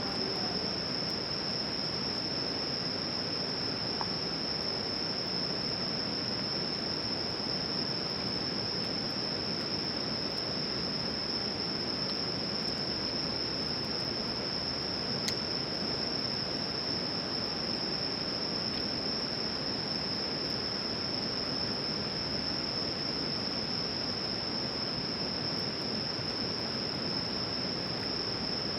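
Insects singing a steady, unbroken high-pitched trill over a constant hiss of background noise, with a single sharp click about halfway through.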